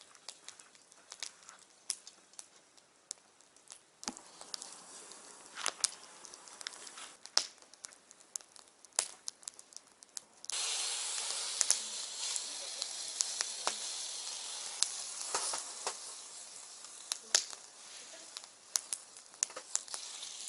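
Wood campfire crackling with sharp pops. About halfway through, a sudden loud hiss flares up and dies away slowly over several seconds.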